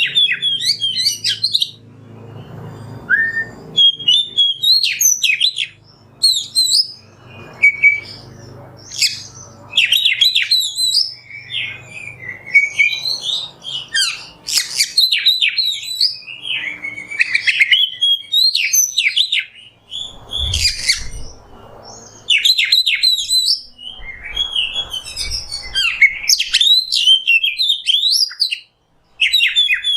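Oriental magpie-robin (kacer) singing a long, varied song of loud whistles and quick chattering phrases, with short pauses between runs.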